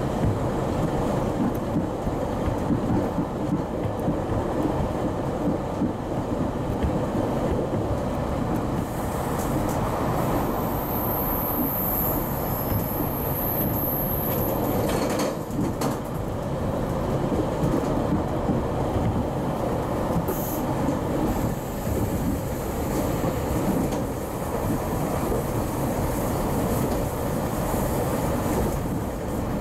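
GO Transit commuter train running at speed, heard from inside the coach: a steady rumble and rattle of the wheels on the rails, with some clickety-clack. A faint high whine comes in for a few seconds near the middle.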